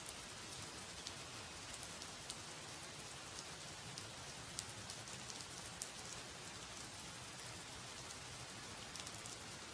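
Steady rainfall, with many small scattered drop ticks over an even hiss.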